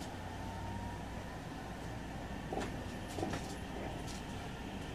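JR Central 313 series electric train heard from inside while running: a steady low rumble of wheels on rail. A rising motor whine fades out about a second in, and two sharp clunks come near the middle.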